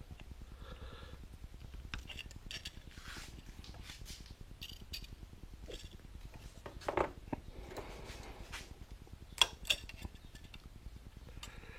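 Light metal clinks and taps from small steel parts being handled and worked at the bench, scattered through, with a louder clatter about seven seconds in and two sharp clicks close together about three quarters of the way through.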